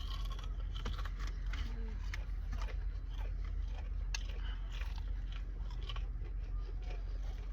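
Close-up chewing and biting into crispy fried chicken: many short, irregular crunches and crackles. A steady low hum runs underneath.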